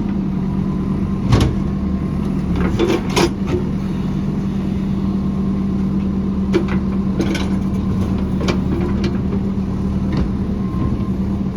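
JCB backhoe loader's diesel engine running steadily, with a series of sharp metallic knocks and clanks at irregular intervals.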